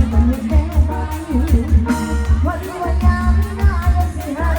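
Thai Isan sound-truck band music played loud through the truck's speakers: a singer over a heavy, pulsing bass and drum beat, with the bass booming and distorting on the camera's microphone.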